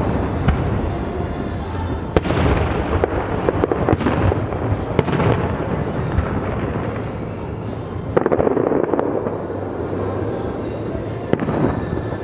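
Fireworks going off: a run of sharp bangs every second or two, with crackling in between.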